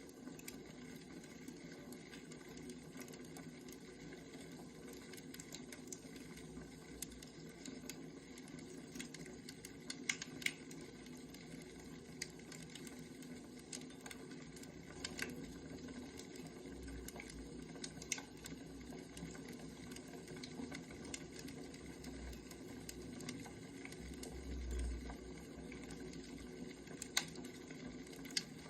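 Wood fire burning: a steady low hiss with scattered sharp crackles and pops, and a few soft low rumbles.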